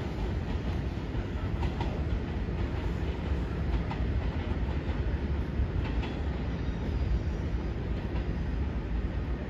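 Izu Kyuko 2100 series 'Kurofune' electric train running away over the rails: a steady low rumble with a few scattered clicks of wheels passing over rail joints.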